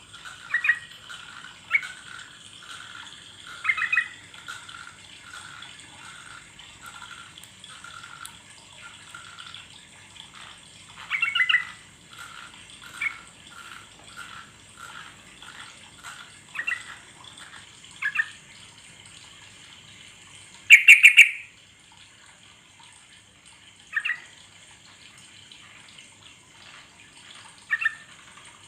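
Yellow-vented bulbul (trucuk) calling: short bubbly phrases every few seconds, with runs of soft repeated notes about two a second between them, and the loudest phrase about two-thirds of the way through. A steady high hiss lies underneath.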